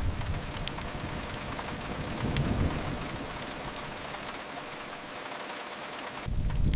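Steady rain hiss with a low rumble that fades in the first second, swells again about two and a half seconds in, then dies away, with a sharp crackle or two of a fire.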